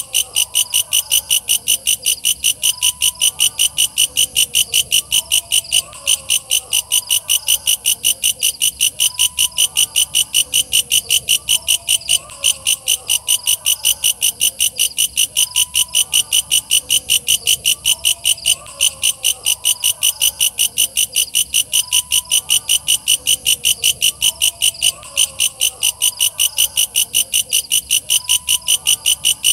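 Walang kecek katydid singing: a loud, steady, high-pitched ticking song of about three sharp pulses a second. Fainter lower chirping calls repeat every few seconds beneath it.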